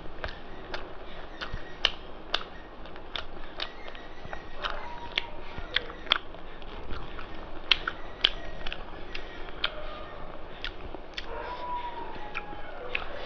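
Close-miked eating: wet chewing with sharp mouth clicks and lip smacks, irregular, about two or three a second, as a mouthful of rice and mutton curry is chewed.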